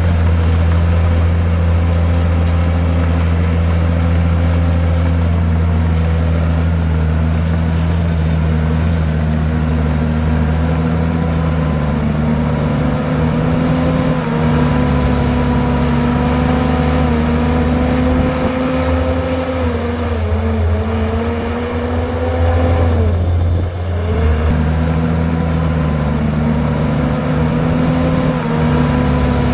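Bulldozer diesel engine running steadily at working revs. Its pitch dips and recovers twice in the last third.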